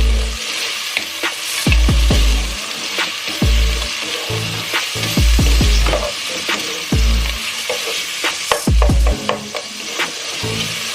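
Sliced onions frying in hot oil in a pan, sizzling steadily, while a spatula stirs them with frequent sharp clicks and scrapes against the pan. Several dull low thumps come in among the stirring.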